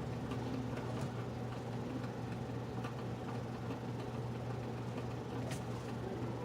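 Electric drip coffee maker running as it heats the water before brewing: a steady low hum with a few faint ticks.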